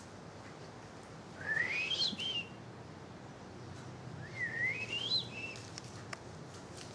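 A parakeet whistling twice: two wavering whistles that each rise steeply and then drop off at the end, a few seconds apart.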